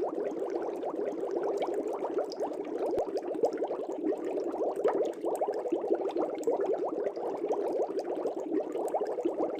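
Aquarium air bubbles rising and bubbling through the water of a fish tank: a steady, dense stream of small bubbles.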